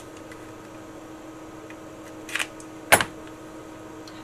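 Small parts being handled on a workbench: a brief rustle about two seconds in, then a single sharp click, over a steady low electrical hum. The handling is of the new matched pair of RF output transistors for the transceiver's final stage.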